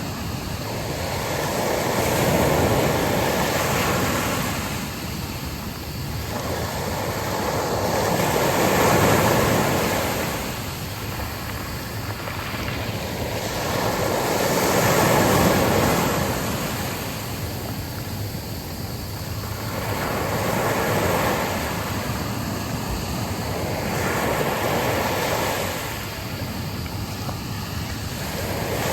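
Sea waves breaking and washing up a beach, the surf swelling and ebbing in a slow, even rhythm about every six seconds.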